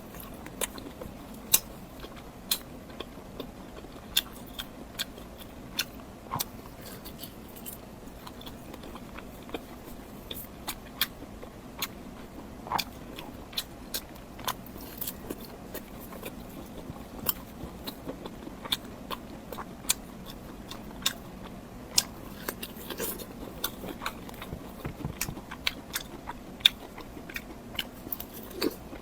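Close-miked eating: crisp, crunchy bites and chewing, with sharp crackly clicks at irregular intervals.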